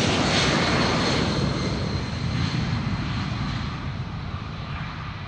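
Airplane passing close by: loud engine noise that fades steadily over a few seconds, with a thin high whine in the first second or so.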